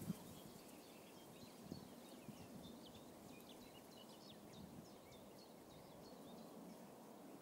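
Near silence outdoors, with faint, frequent bird chirps throughout and one soft knock right at the start.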